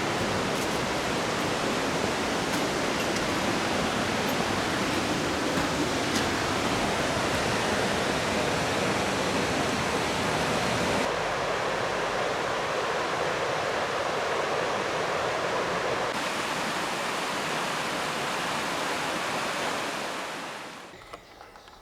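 Waterfall: a steady rush of falling water. Its tone shifts abruptly twice, and it fades away near the end.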